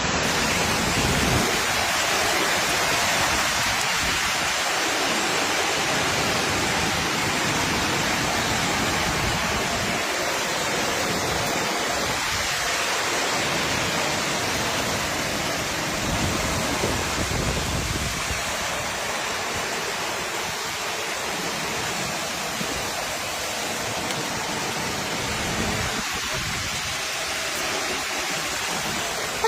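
Heavy rain pouring down steadily in a storm, with a few brief low swells of sound.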